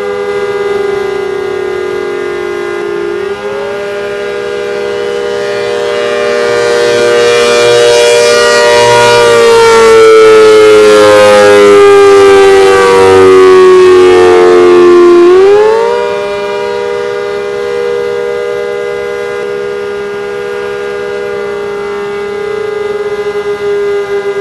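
Old ACA Hurricane warning siren sounding a steady, loud chord of tones. Several seconds in it swells louder for a long stretch while its pitch sags slightly, then the pitch jumps back up and the sound falls back to its earlier level about fifteen seconds in.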